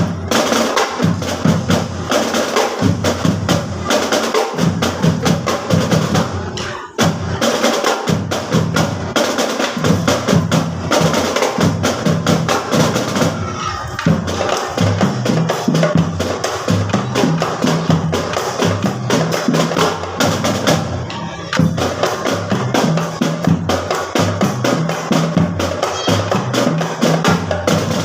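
A school marching drum band playing a continuous drum cadence of snare and bass drums, with brief breaks about 7 and 21 seconds in.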